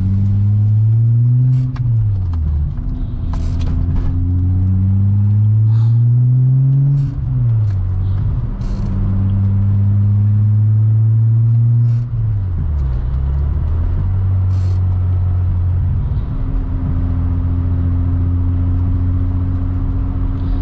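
Modified 12-valve AAA VR6 with Estas 268 cams accelerating hard through the gears of a short-ratio gearbox, its pitch climbing, then dropping sharply at three upshifts about 2, 7 and 12 seconds in. After the third shift it settles into a steady cruise.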